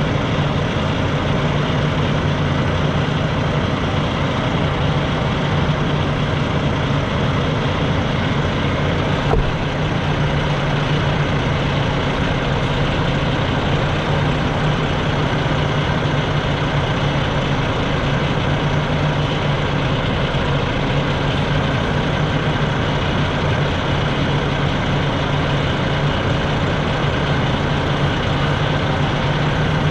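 Semi-truck diesel engine running steadily with a constant low hum.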